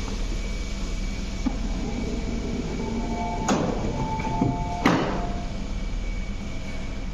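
Platform sound beside a standing MTR East Rail Line MLR train: a steady low hum, with two sharp knocks about a second and a half apart and short beeping tones around them.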